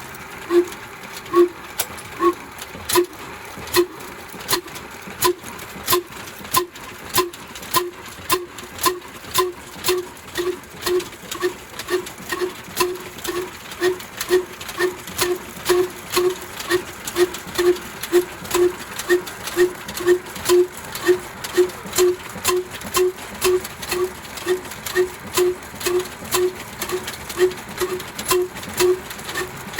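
Old black diesel engine running slowly. Its exhaust beats are even, each a sharp knock with a ringing note, and they gradually quicken from under one and a half to about two a second.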